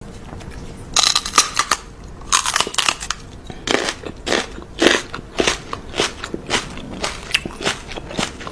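Crunchy chewing and biting sounds from a person's mouth: irregular crunches starting about a second in and coming roughly twice a second.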